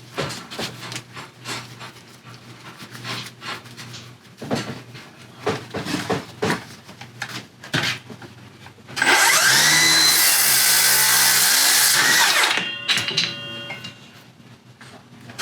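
Milwaukee M18 FUEL 7-1/4" rear-handle circular saw with a 24-tooth blade. For about nine seconds there are only scattered knocks and clicks of handling. Then the saw's brushless motor spins up and the blade cuts through wood for about three and a half seconds, and the blade winds down after the cut.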